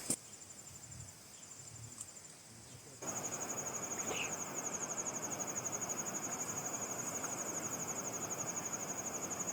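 An insect trilling: a high, rapidly pulsing buzz, faint at first and much louder from about three seconds in, over a steady hiss.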